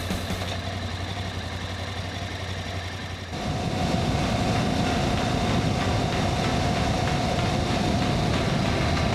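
Voge DS625X motorcycle's parallel-twin engine running steadily, becoming louder and fuller from about three seconds in.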